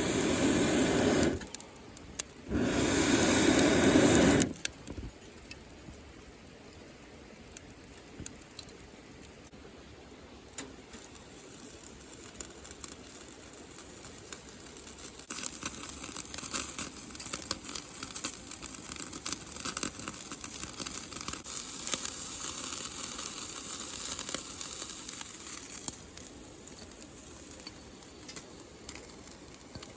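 Two loud rushing bursts in the first few seconds, then a campfire crackling and popping, busiest from about halfway in.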